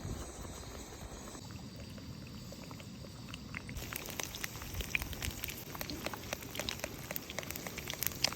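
Eggs frying in a hot pan: a dense sizzle with sharp spitting crackles that starts suddenly about four seconds in, as the eggs hit the fat.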